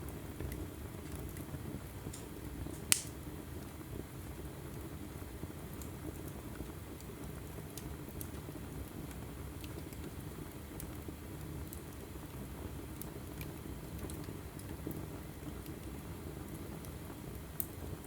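Log fire burning in a fireplace: a steady low rumble of flame with scattered small crackles, and one loud pop about three seconds in.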